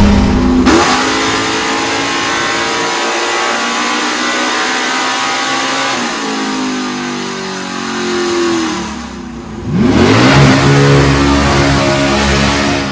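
Car engine revving hard under full-throttle acceleration, its pitch climbing. It breaks and drops back around six seconds in, and climbs again from a fresh start near ten seconds.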